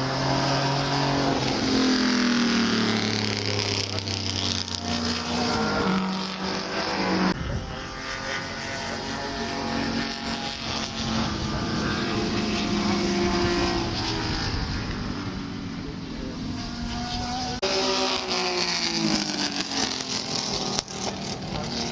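Historic Grand Prix racing cars running at speed, their engines revving high and falling in pitch through gear changes as they pass. The sound changes abruptly twice, about 7 and 17 seconds in.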